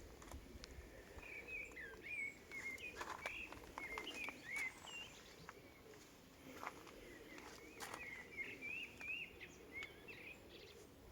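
A small songbird chirping in two runs of quick, twittering notes, over faint outdoor background noise with a few scattered clicks.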